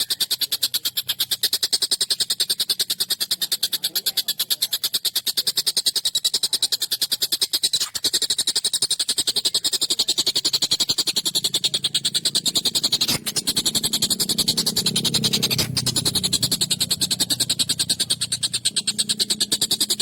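Tengkek buto, a kingfisher, giving a continuous harsh, rapid rattling call of about six notes a second, sharp and high-pitched.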